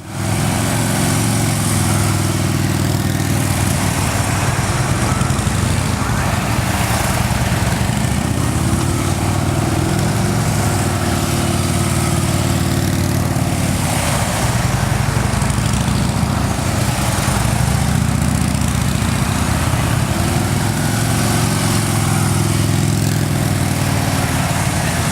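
A steady, loud low engine drone that swells and fades slowly.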